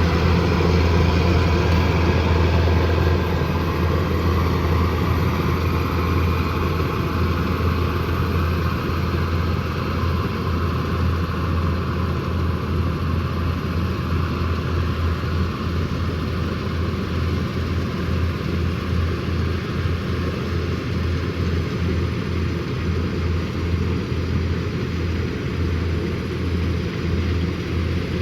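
Kubota combine harvester's diesel engine and threshing machinery running steadily with a low drone. It is a little louder for the first few seconds, then holds even.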